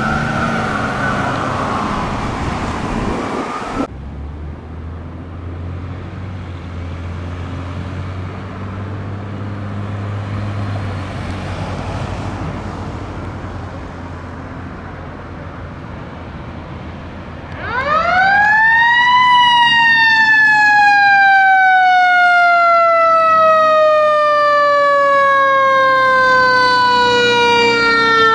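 An ambulance siren wails briefly and cuts off, followed by a fire engine's engine rumbling low. About 17 seconds in, the fire engine's mechanical siren winds up steeply to a loud high pitch and then slowly winds down.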